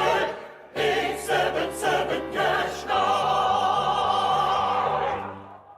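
Music with choir-like singing, the voices wavering in vibrato over a stepping bass line; after a short break near the start the voices hold one long note in the second half, then fade out.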